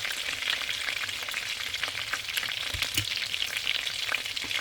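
Chicken wings shallow-frying in hot oil, a steady sizzle with constant fine crackle and spitting. There are one or two low knocks about three seconds in.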